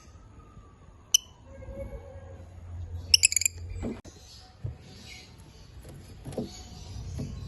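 Lovebirds chirping: one sharp, high call about a second in, then a quick run of several near the middle, over a low background rumble.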